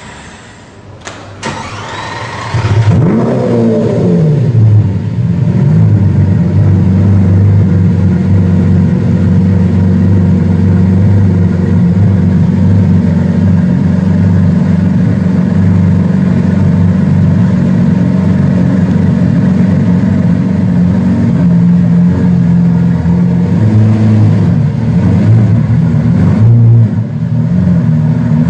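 Lamborghini Aventador's V12 starting: the starter whirs for a second or two, the engine catches about three seconds in with a short rev that rises and falls, then settles into a steady idle. There is a brief blip near the end.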